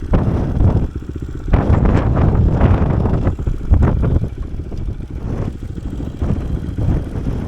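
Kawasaki KSR110's single-cylinder engine running on the move, with wind buffeting the microphone in uneven gusts.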